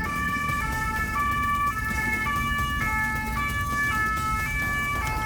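French two-tone police siren ("pin-pon") alternating between two pitches, with engine and road rumble underneath.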